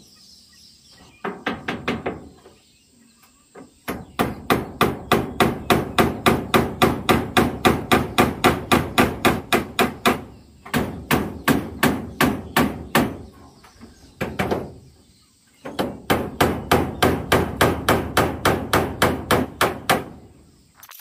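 Rapid hammering, about four to five blows a second in several long runs with short pauses between them: nails being driven into corrugated zinc roofing sheets.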